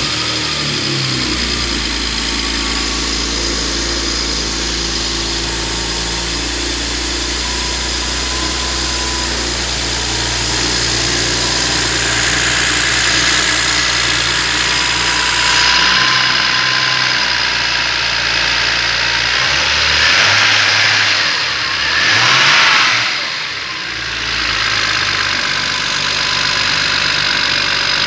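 BMW N54B30A twin-turbo straight-six running just after start-up, being tested as a used engine: mostly a steady idle, revved up briefly a few times in the second half.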